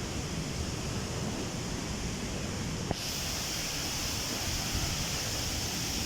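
Steady rushing of waterfalls. A short click comes about halfway through, after which the rush sounds brighter.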